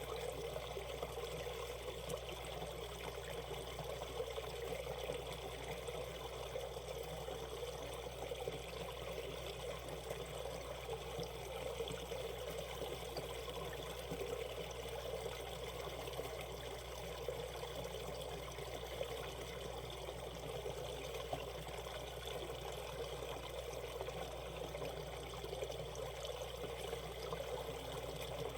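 Mountain stream water running and trickling over rocks in a steady, even flow.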